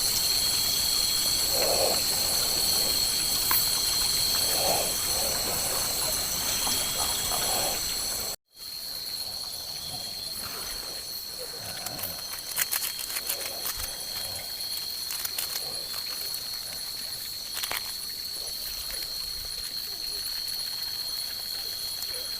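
Night insect chorus: a steady, high-pitched ringing drone of several held tones, with faint low calls beneath it. The audio cuts out for an instant about eight seconds in.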